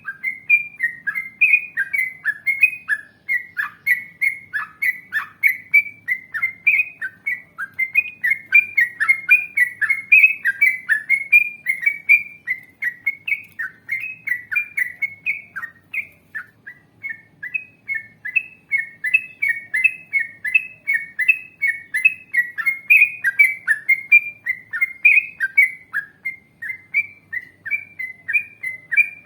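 Yellow-vented bulbul (trucukan) singing a long, unbroken run of quick, bubbly whistled notes, about three a second, with a slightly softer stretch about halfway through.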